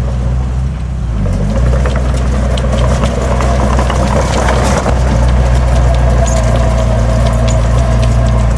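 Heavy diesel engine of earthmoving machinery running steadily under a low, even drone, with scattered clanks and a brief noisy rush about halfway through.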